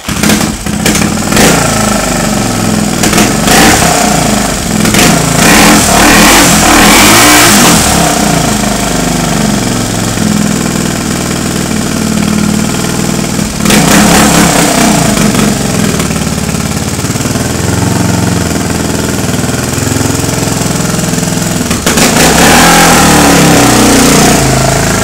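Honda XLX 350 single-cylinder four-stroke motorcycle engine starting up, then idling and revved in several swells, the longest near the end.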